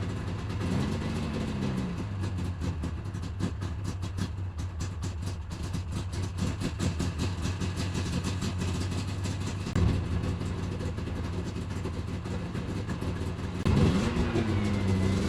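2000 Yamaha PZ500 Phazer snowmobile engine running just after starting, mostly at a steady idle. The throttle is blipped, with the pitch rising and falling, about a second in and again near the end.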